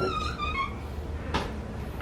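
African grey parrot giving a whistled call that rises, then slowly sags over about a second, followed by a single click about one and a half seconds in.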